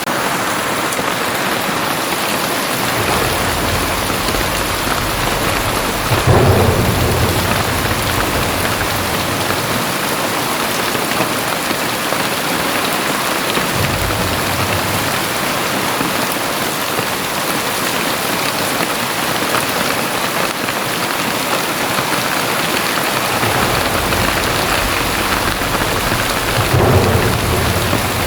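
Very heavy rain pouring steadily, with deep rumbles rolling in and out beneath it. The two strongest rumbles come about six seconds in and near the end.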